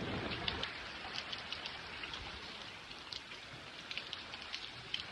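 Steady rain falling: an even hiss with many scattered, sharp drip ticks.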